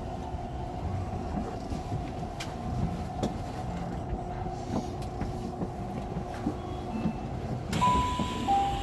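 Subway train running and slowing into a station, with a steady hum and scattered rail clicks. Near the end a two-note electronic chime sounds, the higher note first, then the lower one.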